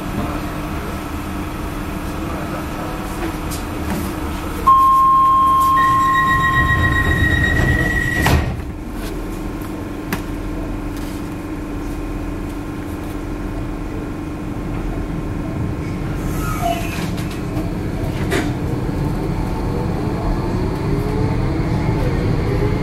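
Docklands Light Railway train at a station. A loud steady warning tone sounds, then a higher one, and the sliding doors shut with a knock about eight seconds in. The train then hums and its motors whine up in pitch as it starts to pull away near the end.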